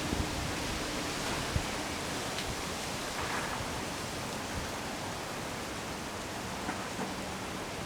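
Strong wind blowing steadily, a constant rushing noise, with a brief low bump about a second and a half in.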